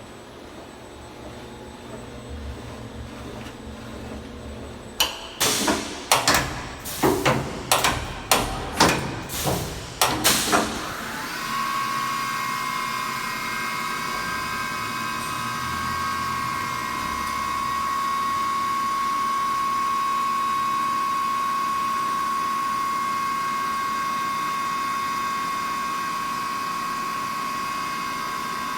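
CNC machine running: about ten short, sharp bursts over some six seconds, then a steady high-pitched whine for the rest.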